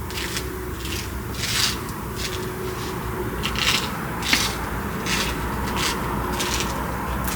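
Irregular rubbing strokes, about one to two a second, over a steady low hum.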